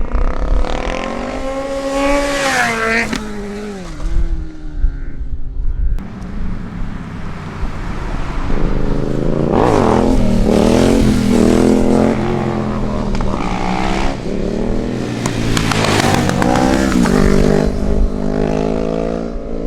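Vehicle engine revving hard, its pitch rising and falling with each rev. After an abrupt break about six seconds in, it comes back louder with sustained high revs through to the end.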